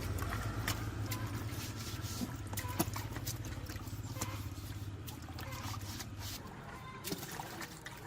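A small electric motor running steadily under scattered clicks and taps, then running down and stopping about six seconds in.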